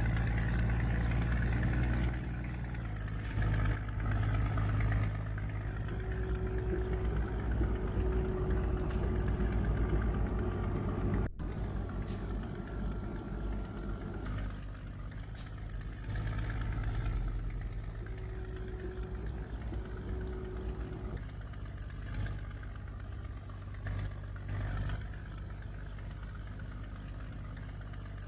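Scania G124 truck's diesel engine running steadily, with a sharp break about eleven seconds in, after which it carries on a little quieter.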